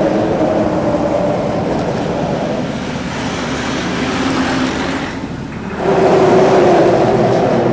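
Outboard motor of a motor launch running steadily, with wind and water noise over it. The engine note dips about five seconds in and comes back a little higher about a second later.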